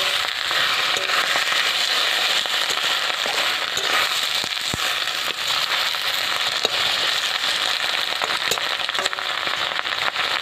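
Cauliflower leaves frying in oil in a karahi, sizzling steadily with many scattered crackling pops as water from the freshly washed leaves cooks off, while a metal spatula stirs them.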